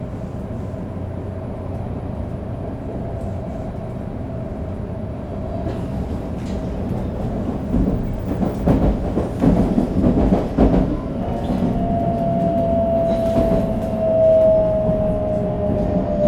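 Shinkansen 500 series running, heard on board: the whine of its Toshiba GTO-VVVF inverter glides slowly downward as the train slows for the station, over a steady rumble of wheels on rail. A louder, rattly stretch of wheel and track noise comes midway.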